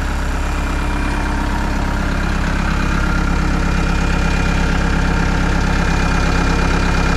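Machine engine idling steadily while a 12-volt transfer pump runs, pumping diesel from the tank into the skid steer.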